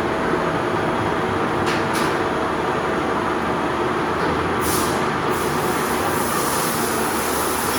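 Metal lathe running with a steady mechanical noise. Two faint ticks come about two seconds in, and a brighter high hiss joins about four and a half seconds in.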